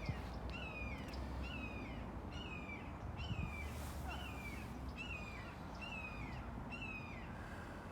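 A bird calling over and over: a short, falling call repeated a little under once a second, stopping near the end.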